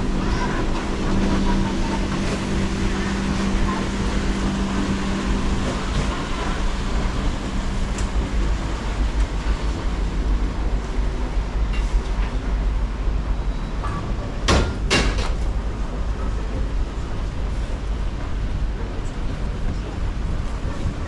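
Train running with a steady low rumble and a hum that eases off about nine seconds in; two sharp knocks about half a second apart come roughly fourteen and a half seconds in.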